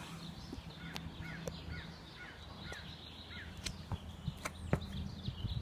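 A bird chirping about six times in quick, even succession over a low steady hum, with scattered light clicks.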